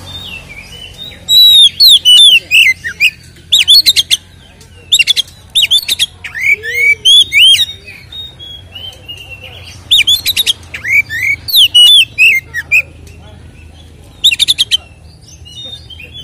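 Oriental magpie-robin (kacer) singing its loud, full-volume fighting song. The song comes in about five bursts of varied whistles, down-slurred notes and rapid trills, with short pauses between them.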